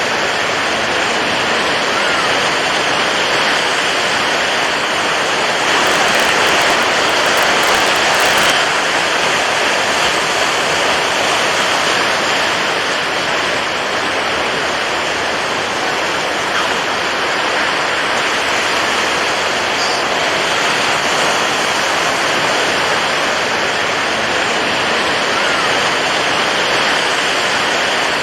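Steady rushing water, an even continuous wash with no breaks, swelling slightly for a couple of seconds about six seconds in.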